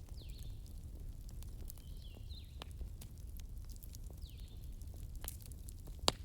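Wood fire crackling: scattered sharp pops and snaps over a low steady rumble, with the loudest pop near the end. Brief high whistling notes, some falling in pitch, come and go between the pops.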